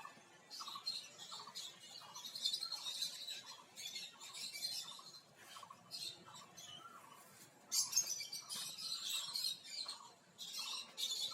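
A flock of caged lovebirds chattering, with many short, overlapping high chirps and calls that keep on without a break.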